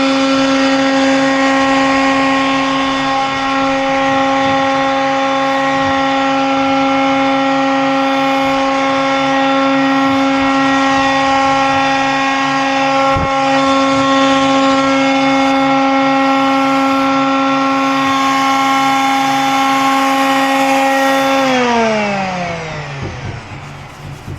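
A small electric motor running at a steady whine with a rush of air, then switched off about 21 seconds in and spinning down to a stop.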